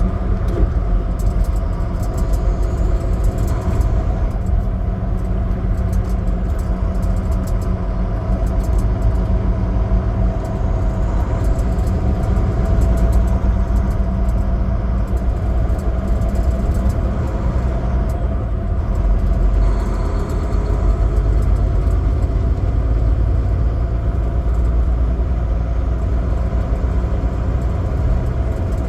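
Semi truck's diesel engine running steadily on the road, a constant low rumble with road noise and scattered light rattles.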